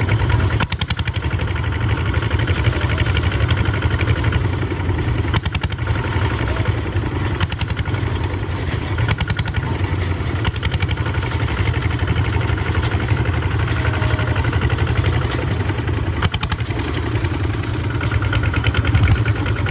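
Tractor engine running steadily with a fast, even chug while driving, with a few sharp clattering knocks along the way.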